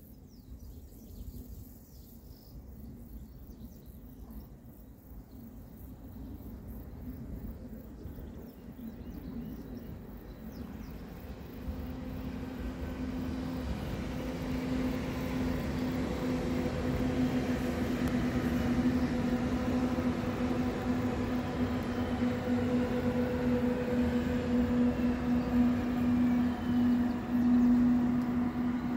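Passenger multiple-unit train approaching on the station track. Its running noise grows steadily louder from about halfway through, with a steady hum over a low rumble.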